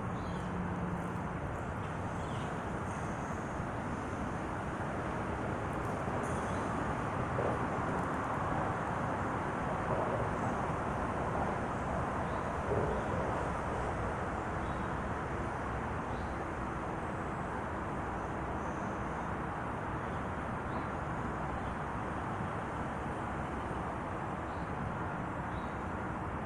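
Steady outdoor background noise, an even rushing rumble, with a few faint high chirps now and then.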